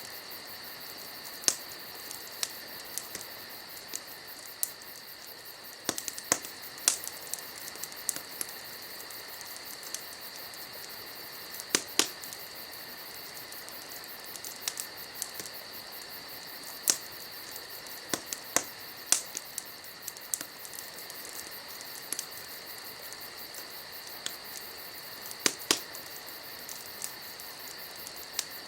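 Wood fire crackling, with sharp, irregular pops every second or two. Under it runs a steady, high insect chirring.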